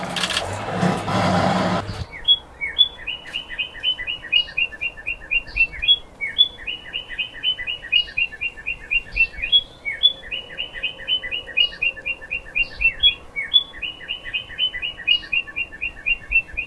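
A loud buzzy, rasping sound for the first two seconds, then a small bird chirping in quick, steady runs of short falling notes, each run opened by a higher note.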